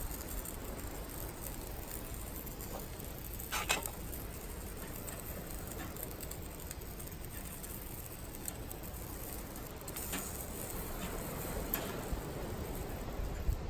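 Campfire of firewood and charcoal burning steadily, with a few sharp crackles and pops, the clearest about four seconds in.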